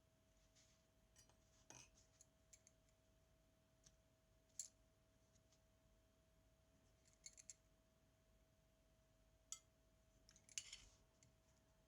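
Very faint, scattered small clicks and light scrapes of hands and tools working on a Zenit TTL film camera, with a brief cluster of scraping near the end, over a faint steady hum.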